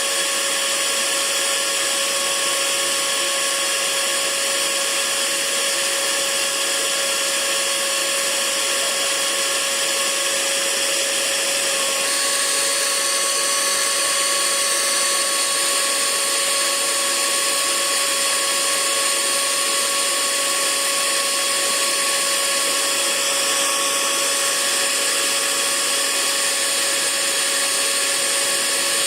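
Hair dryer running continuously: a steady rush of blown air with a constant motor whine, used as white noise. Its pitch changes slightly about twelve seconds in.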